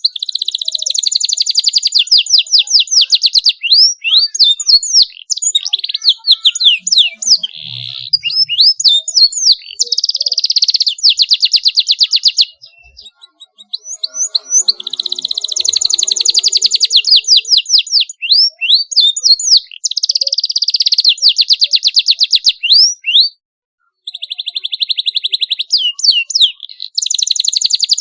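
Domestic canary singing in long, rapid trills and rolls mixed with quick sweeping chirps. The song breaks off twice for a second or so before resuming.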